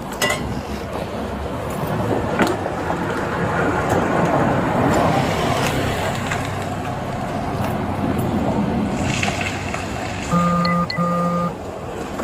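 Street traffic noise, swelling as a vehicle passes, then two short beeps near the end.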